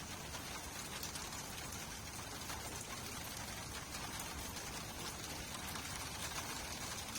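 Steady rain falling, a constant hiss with many small drops ticking through it.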